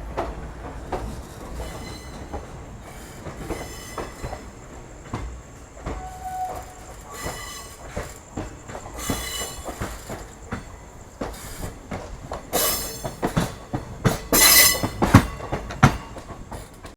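Indian Railways passenger train running on the track: wheels knocking over rail joints, with high-pitched wheel squeal in patches, loudest near the end.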